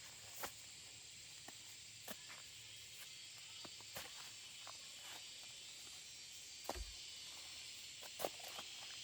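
Faint outdoor ambience: a steady high insect hiss with a thin high tone, and scattered light clicks and rustles like footsteps.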